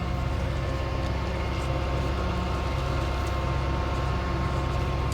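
Rollback tow truck's engine idling steadily, an even low hum.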